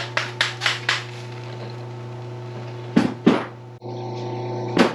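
Metal knocks and clanks from hand tools working on steel parts: a quick run of light knocks at the start, two heavier strikes about three seconds in and another near the end, over a steady low hum.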